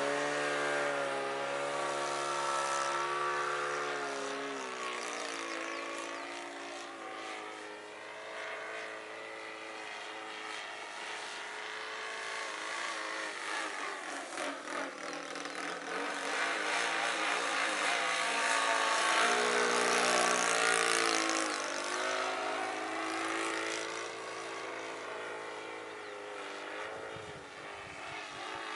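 Radio-controlled Yak 55M model plane with a Saito 82 four-stroke glow engine in flight, its propeller note rising and falling in pitch as it passes overhead. It drops in pitch a few seconds in and is loudest just past the middle, on a close pass.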